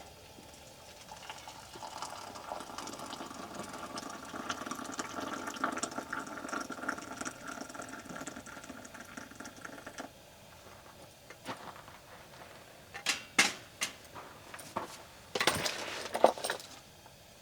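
Water pouring steadily into a container for about nine seconds, then stopping suddenly, followed by a few sharp knocks and clatters.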